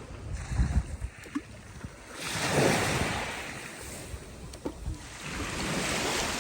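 Black Sea waves breaking and washing up the shore, two swells of surf about two and a half and five and a half seconds in, with low gusts of wind on the microphone near the start.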